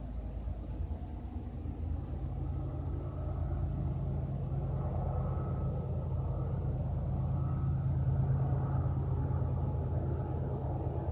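A train rumbling steadily, low and deep, growing gradually louder as it approaches.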